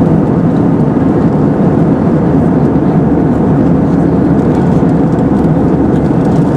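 Steady cabin drone of an Airbus A320-232 in flight, its IAE V2500 turbofans and the airflow over the fuselage making a loud, even, low rushing noise.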